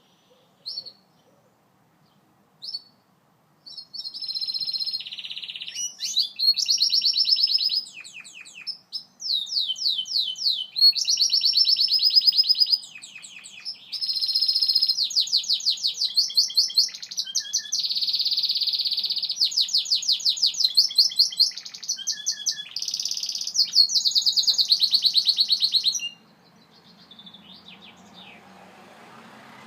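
Gloster canary singing: two short chirps, then a long unbroken song of rapid trills at shifting pitches for over twenty seconds, which stops abruptly near the end.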